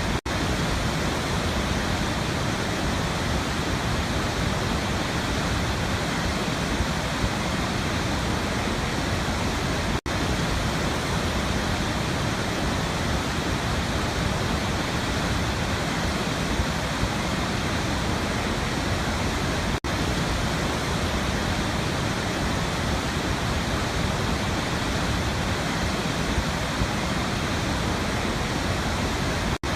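Waterfall: a steady, dense rush of falling water, broken by a very brief dropout about every ten seconds.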